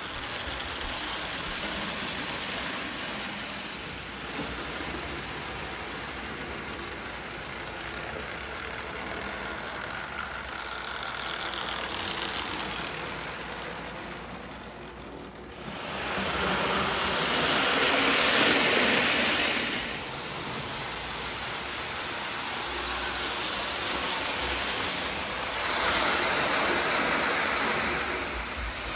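Marx 1829 toy steam locomotive running a freight train on tinplate track: a steady electric-motor whirr with wheels rattling along the rails. The whirr grows louder twice, in the second half and again near the end.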